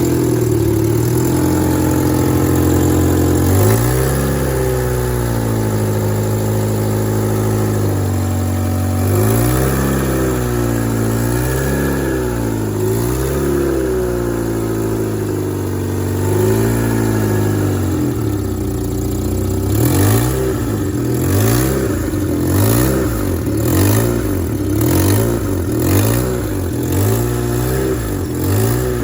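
Car engine with a leaking exhaust manifold gasket, running and being revved up and down several times. About two-thirds of the way in the revs turn to quick throttle blips about once a second, each with a sharp puffing tick from the leak.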